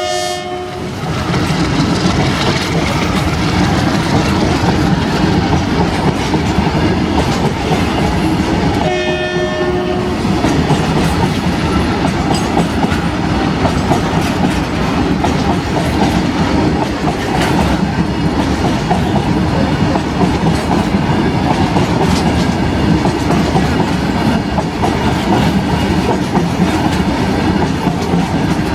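Goods train of BTPN oil tanker wagons rolling past, a steady loud rumble with wheels clattering over the rail joints. A horn blows once for about a second, about nine seconds in.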